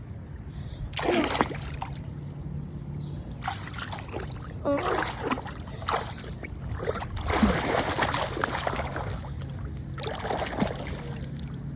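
Floodwater splashing and sloshing in irregular bursts at a clogged storm drain being cleared.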